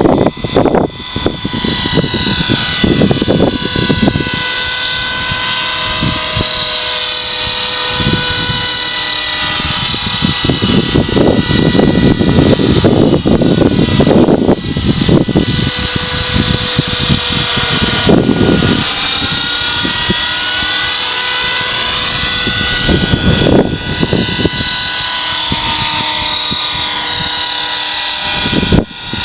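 450-size radio-controlled helicopter in flight, its motor and rotors making a steady high whine that wavers in pitch as it is flown. Gusts of wind buffet the microphone with repeated low rumbles.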